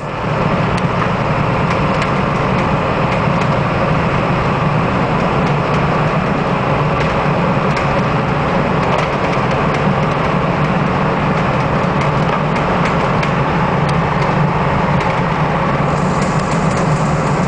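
Steady road noise and engine drone inside the cab of a 2000 Ford E450 bus cruising on the highway, its 7.3-litre V8 turbo-diesel running evenly, with wind noise around the door.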